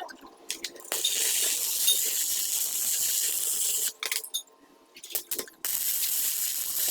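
Two long bursts of steady, high-pitched hissing spray, the first lasting about three seconds and the second starting about a second and a half after it stops.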